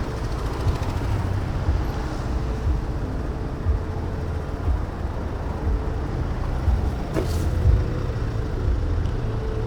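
Wind buffeting and road rumble on an action camera's microphone while riding an e-bike, with a faint steady whine under it. There is one brief sharp noise about seven seconds in.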